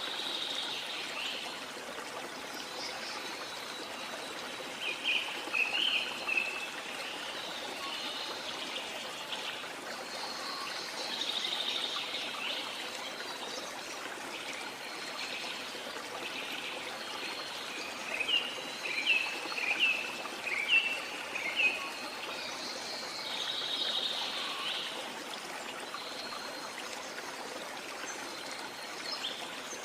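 Rainforest ambience: a steady wash of water with birds calling over it. A short run of chirps comes about five seconds in, and a longer run of quick chirps from about eighteen to twenty-two seconds.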